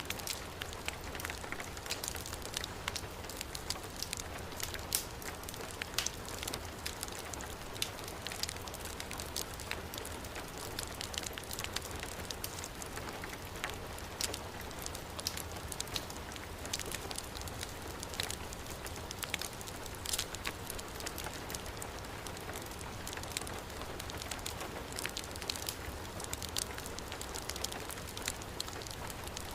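Heavy rain falling steadily, mixed with a wood fire burning in a fireplace, its crackles and pops scattered as sharp clicks throughout.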